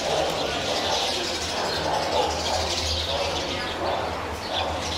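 Outdoor ambience of birds chirping over a steady low hum.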